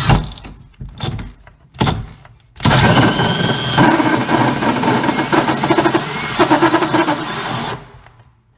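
Milwaukee M12 cordless hammer drill driving a hole saw through cabinet wood: a couple of short trigger pulls, then about five seconds of steady cutting with the motor labouring under load, before it stops near the end.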